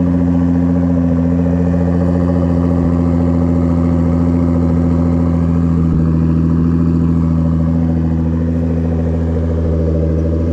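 Twin-turbocharged Nissan 350Z VQ35DE V6 idling steadily, freshly started and still cold.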